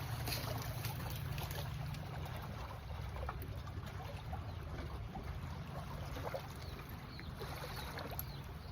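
Sudden small waves washing and lapping against the shore of a cove, a steady wash with a low rumble and faint splashes. The speaker takes the waves for the sign of something big moving in the water.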